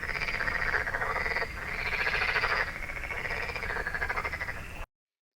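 Frogs croaking, call after call with hardly a gap, cutting off abruptly about five seconds in.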